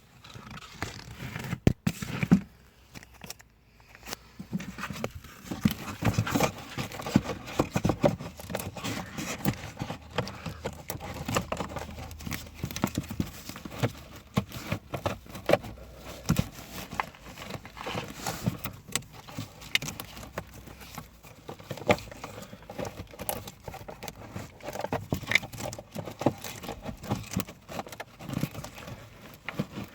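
Hands handling plastic parts and a pollen filter: a busy stream of irregular clicks, knocks and crinkling.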